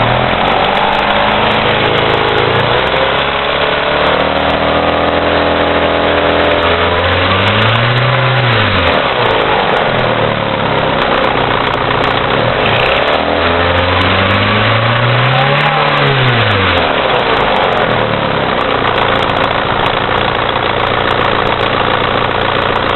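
Mitsubishi Eclipse's turbocharged 4G63 inline-four running with rod knock, a worn connecting-rod bearing. It idles, is revved up and falls back twice, then settles to idle again.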